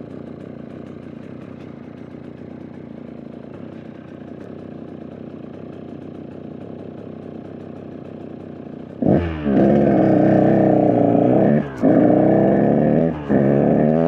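KTM EXC 125 two-stroke dirt bike engine running low and steady. About nine seconds in the throttle opens and it revs loud, dropping off briefly twice. The owner says the bike is not running great right now.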